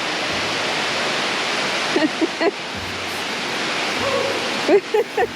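Waterfall rushing steadily. A few brief voice sounds come over it about two seconds in and again near the end.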